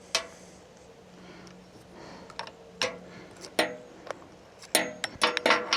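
A series of sharp metal clinks and clanks with a short ring, several close together near the end: a chainsaw's bar, chain and tools knocking together while the bar and chain are swapped.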